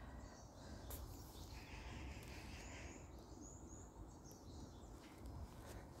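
A small bird chirping faintly in leafless woods, two pairs of short high notes near the middle, over a steady low rumble.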